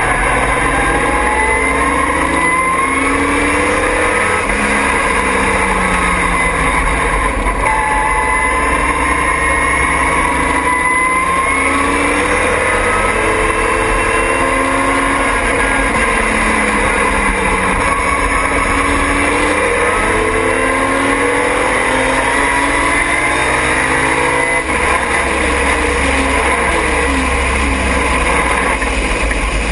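Triumph TR6 race car's straight-six engine at racing speed, pulling up in pitch again and again and dropping back at each gear change, over steady wind and road noise.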